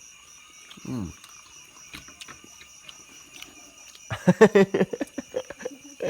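Short bursts of a person's voice, one brief sound about a second in and a quick run of syllables near the end, over a steady high trill of crickets.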